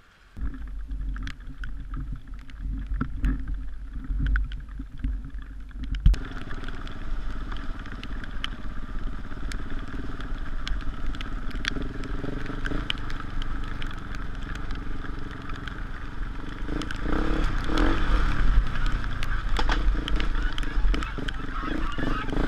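KTM 690 Enduro R's single-cylinder engine running as the bike rides along a wet gravel track, with heavy wind buffeting on the helmet camera.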